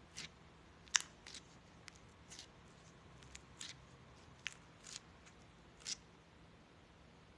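Slime being squeezed and worked by hand, giving about a dozen short, sharp clicks and crackles at irregular intervals.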